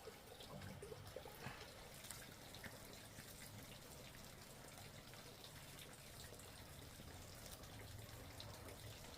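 Faint water dripping and trickling, with scattered small ticks.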